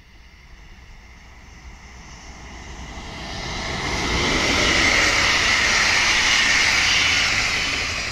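Electric-hauled passenger train passing close by: the wheel-on-rail running noise builds as it approaches, then stays loud and steady as the locomotive and coaches go past, cutting off suddenly at the end.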